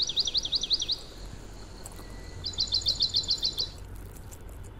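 Bird chirping in two high-pitched runs: about six quick falling notes at the start, then after a pause a faster run of about ten notes. A faint low hum lies underneath.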